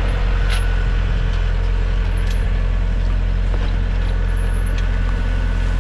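Small Trident 404 tractor's engine running steadily, with a few faint clicks from the machine.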